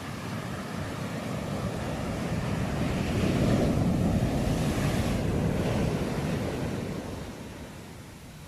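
Sea waves on a shore: one wave swells, breaks about three seconds in and washes out, fading near the end, with wind on the microphone.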